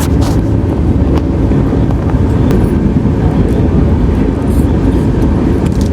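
Steady low rumble of a moving passenger train heard from inside the coach, with a few short clicks.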